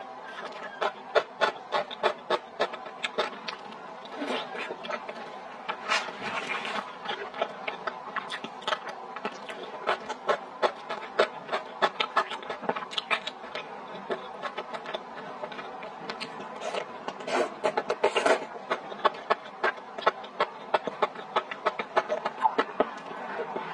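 Close-miked mukbang eating sounds: a person chewing spicy skewered food with mouth open, many quick wet smacks and clicks.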